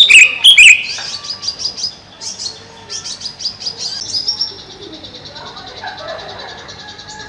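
Greater green leafbird singing: loud sweeping, falling notes in the first second, then a string of quick high chirps, fading from about halfway into a faint, fast, even trill.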